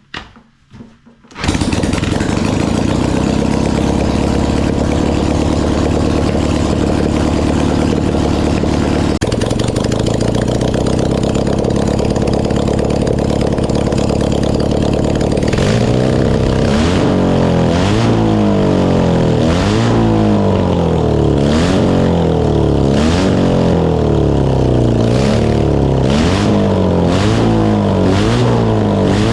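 1980s air-cooled BMW airhead boxer-twin motorcycle engine catching after a few brief attempts and then running loud and steady. From about halfway through it is revved in repeated quick blips, roughly one every second and a bit.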